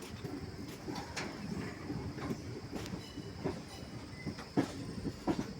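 Train running: a steady low rumble with irregular sharp clacks and knocks from the wheels and cars.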